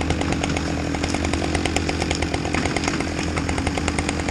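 Chainsaw running steadily at a constant pitch, with no pause or change.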